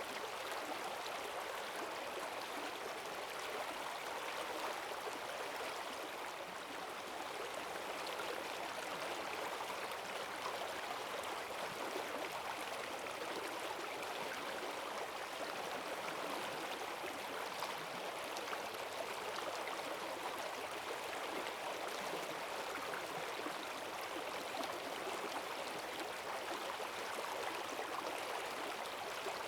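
Forest stream running high after heavy rain: a steady rush of fast water over stones.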